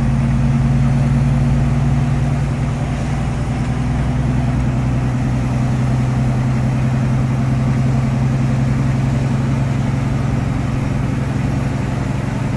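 Truck engine running steadily with an even, low hum.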